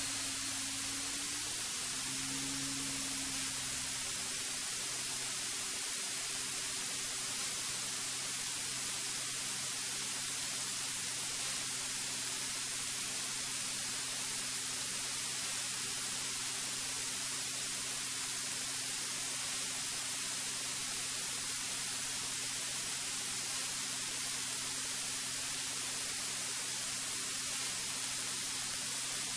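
Steady hiss of a cockpit intercom audio feed, with the faint steady hum of the Cirrus's piston engine beneath it at climb power during a go-around.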